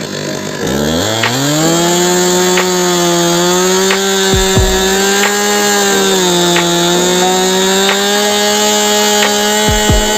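Two-stroke chainsaw revving up to full throttle about a second in, then running at high revs with small dips in pitch as it cuts through wood while felling a tree.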